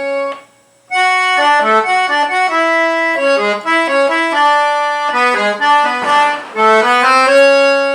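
A single-line melody played on an accordion, held reedy notes stepping up and down several times a second, with a short break about half a second in before the tune resumes.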